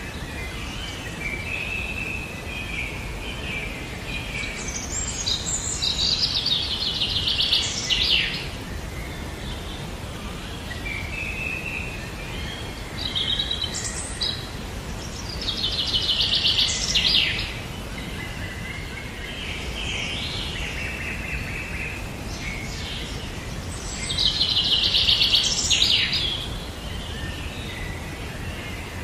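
A songbird singing the same song three times, each phrase moving from lower whistled notes into a loud, rapid trill, with a steady low outdoor background noise underneath.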